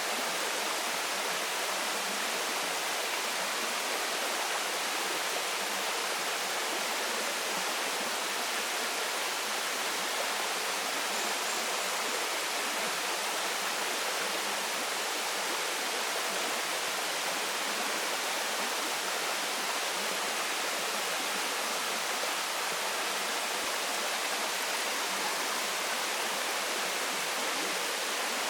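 Waterfall: water falling and splashing into a stream, a steady unbroken rush with no changes.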